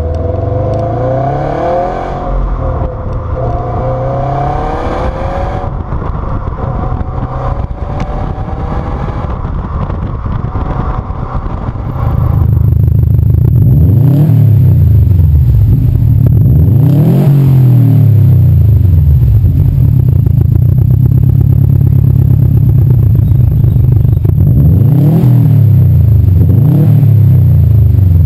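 Subaru WRX STI exhaust, likely in two recordings: first the engine note rises and falls with engine speed, then about twelve seconds in a louder recording of it idling with a deep burble, blipped four times in quick rises and falls of revs.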